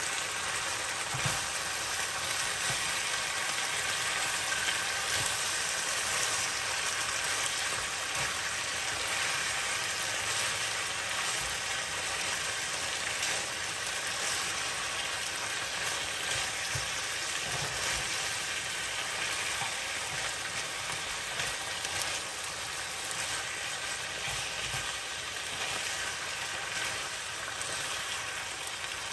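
Beef and bitter melon strips sizzling steadily in a nonstick frying pan as they are stir-fried with a spatula.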